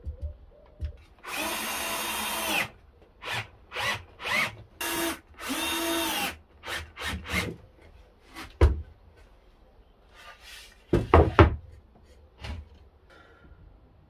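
A power drill driving screws into wood in a run of short bursts, the motor speeding up and slowing down with each one. A few sharp knocks follow later on.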